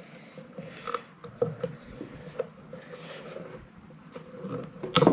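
Missed nail points being bent over and clipped off with cutters: a few small metal clicks and scrapes, with one sharp snap near the end.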